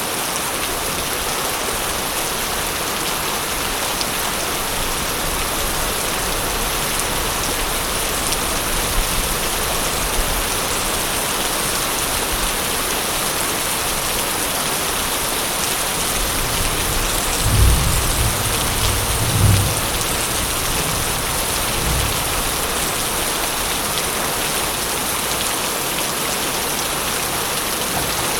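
Steady heavy rain hissing, with a low rumble of thunder rolling in about two-thirds of the way through, swelling twice and then fading.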